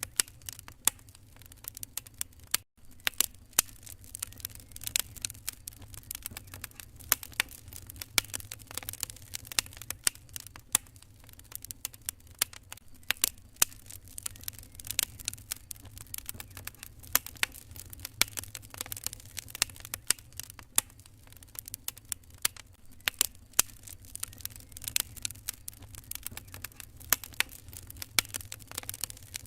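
Wood fire crackling in a fireplace: irregular sharp pops and snaps over a low steady rumble. The sound cuts out for an instant just under three seconds in.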